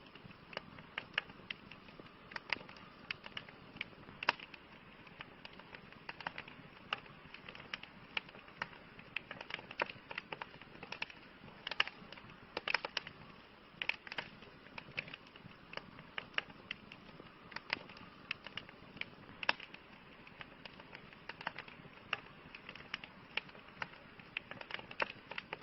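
Wood campfire burning, with irregular sharp crackles and pops over a soft steady hiss.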